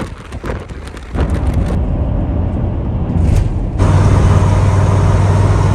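Vehicle engine running with a steady low drone, preceded by a few sharp clicks or knocks in the first second; the drone strengthens abruptly about two-thirds of the way in.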